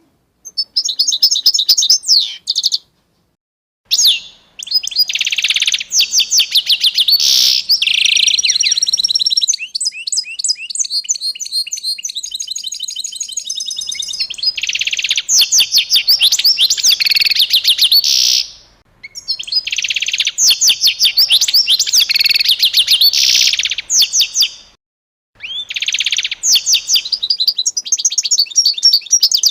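Small birds chirping in fast, high-pitched runs of rapid repeated notes. The chirping cuts off abruptly to silence a few times and then starts again.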